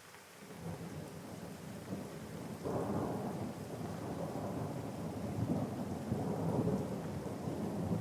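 Rolling thunder over steady rain. The deep rumble builds about half a second in, swells much louder near three seconds, and keeps rolling with rising and falling peaks.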